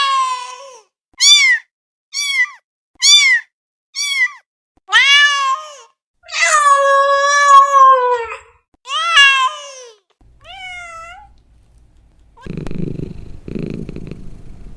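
Domestic cat meowing repeatedly, about nine short meows and one long drawn-out one, the last ones fainter. From about two-thirds of the way through, a low rhythmic purr pulses roughly once a second.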